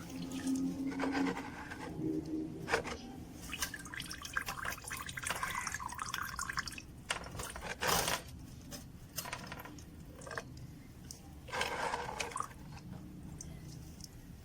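Coolant dripping and trickling from a motorcycle cooling system, with scattered sharp clicks and knocks, the loudest about eight seconds in.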